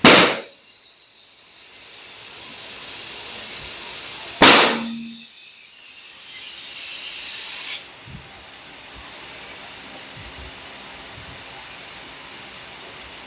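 Two loud bangs about four and a half seconds apart as a tyre's beads pop onto the wheel rim under compressed air, each followed by air hissing; the hiss stops suddenly about eight seconds in.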